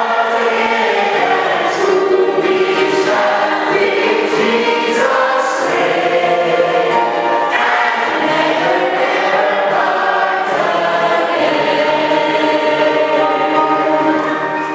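Church choir singing, several voices holding long chords.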